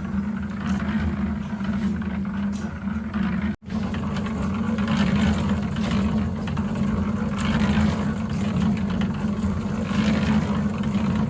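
A small engine running steadily, cutting out abruptly for a moment about three and a half seconds in, then carrying on.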